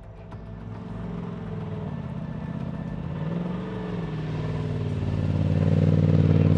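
Trophy truck engine running, with one short rev near the middle and growing louder towards the end. The crew takes its knock for a bearing knock, likely a big-end bearing.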